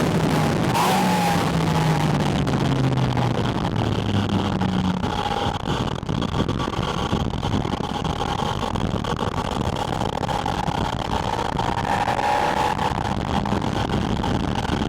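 Porsche Spyder RS's flat-six engine heard through a microphone at its air intake, the revs falling steadily over the first five seconds, then running on evenly under a constant rush of wind noise.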